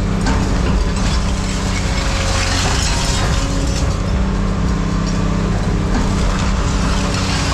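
An engine running steadily under a continuous mechanical rattle and clatter.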